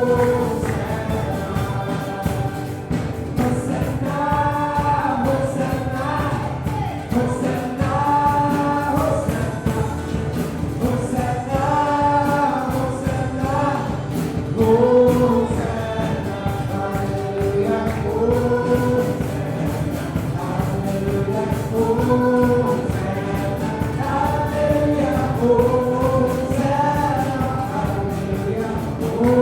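Live gospel worship music: several voices singing long, held notes together over a steady instrumental backing.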